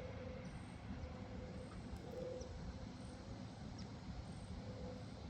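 Quiet outdoor morning ambience: a steady low rumble, with a faint call repeating about once a second.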